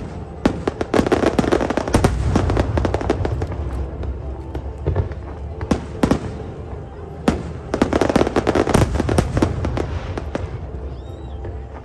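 Aerial fireworks exploding: dense volleys of sharp cracks and crackles, one about a second in and another around eight seconds in, over a continuous low rumble of booms.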